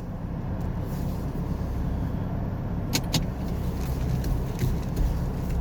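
A ute's engine and road noise heard from inside the cab as it drives off, a steady low rumble. A quick pair of sharp clicks comes about three seconds in.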